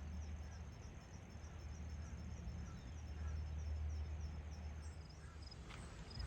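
Crickets chirping in a high, even, repeating pulse over a steady low rumble, with a few faint bird chirps.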